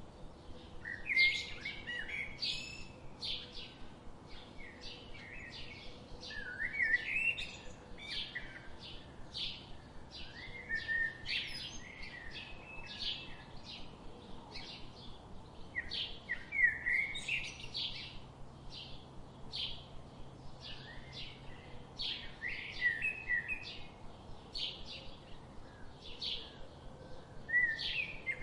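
Birds chirping: many short chirps and whistled notes, bunched into busier phrases every few seconds.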